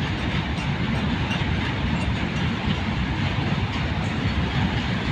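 Electric-locomotive-hauled train passing at high speed: a steady, loud rush with a deep rumble from the wheels on the track.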